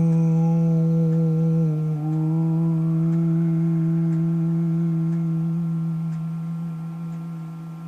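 A woman toning: one long, low hummed note held steady, with a brief break and slight shift in pitch about two seconds in. The note fades away near the end.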